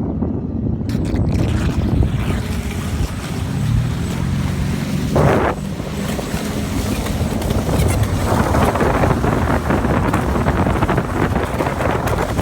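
Wind buffeting the microphone over the faint whine of a Pro Boat Miss Geico 29 V3 RC racing boat's 6S brushless motor running out on the water. The motor's pitch shifts in the middle, and a short gust or splash comes about five seconds in.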